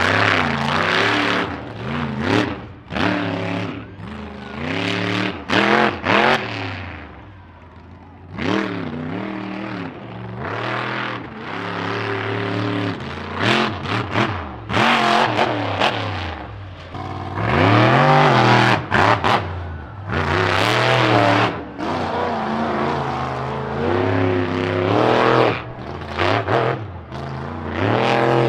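Monster truck engine under hard throttle on a timed racing run, revving up and dropping off again and again, its pitch rising and falling every second or two. It eases off briefly about eight seconds in.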